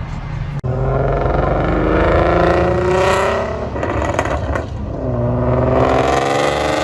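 Car engine revving loudly in two long pulls, the first sinking slowly in pitch, the second from about five seconds in rising and then falling.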